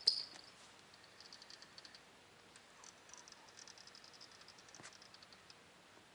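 Faint, high, rapid chirping trills in short runs from small wild creatures, the loudest run right at the start. A single sharp click about five seconds in.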